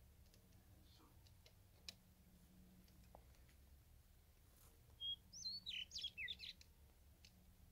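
Near silence, then about five seconds in a small songbird sings one short phrase: a brief high whistle followed by a quick run of rising and falling chirps. A few faint clicks are heard before it.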